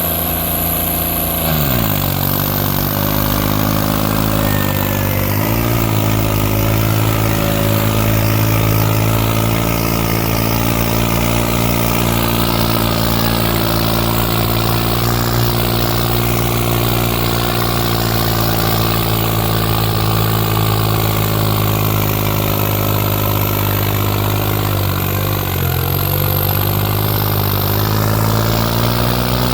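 New Holland 3630 tractor's diesel engine running hard, pulling a 22-tine harrow. Its pitch drops sharply about two seconds in and then holds steady, with a short sag and recovery near the end.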